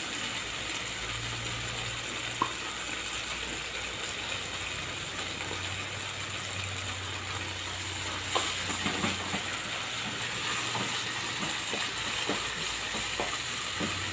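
Chopped onion, bell pepper, tomato and garlic sizzling in oil in a frying pan. From about eight seconds in, a wooden spoon scrapes and knocks against the pan as tomato sauce is stirred through.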